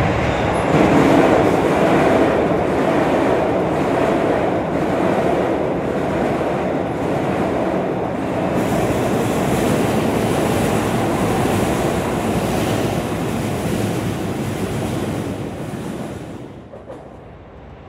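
Electric commuter train running past on the tracks: a steady rumble of wheels on rails that fades away about 16 seconds in.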